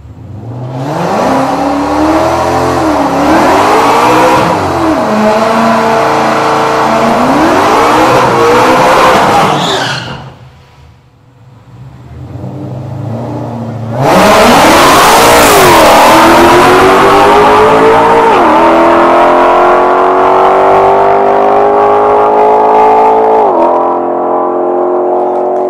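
Supercharged S550 Ford Mustang's V8 revving hard in repeated bursts. After a short lull it comes in loud at full throttle down the drag strip, the revs climbing with two upshifts, each heard as a sudden drop in pitch.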